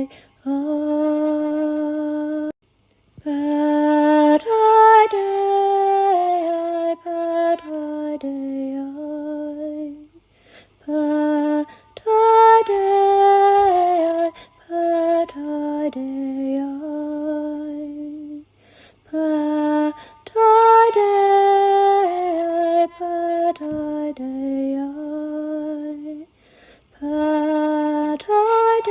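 A woman's solo voice singing slow, wordless chant-like phrases of long held notes that step gently up and down, with short breaks between phrases.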